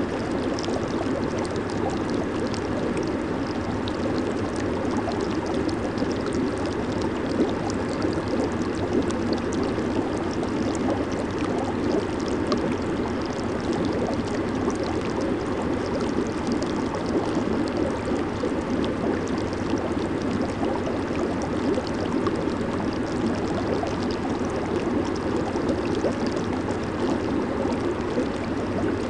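Jacuzzi (hot tub) with its jets running, the water churning and bubbling steadily with a fine crackle of small bubbles over a fuller, lower wash.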